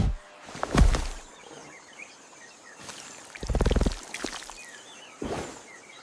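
Outdoor nature ambience with faint bird chirps, broken by three short low animal-like sounds: one about a second in, a pulsed one about halfway, and one near the end.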